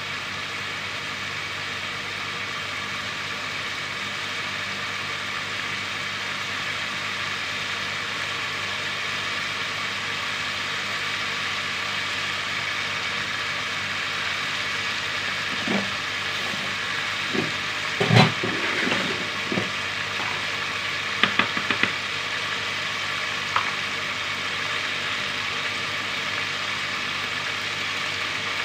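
Chicken pieces and potato cubes frying in oil in an aluminium pot, a steady sizzle throughout, with a few short knocks and clicks a little past halfway.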